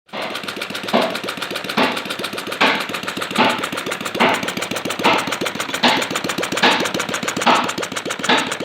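Model Atkinson-cycle petrol engine running: a fast, even clatter with a louder surge recurring a little more than once a second.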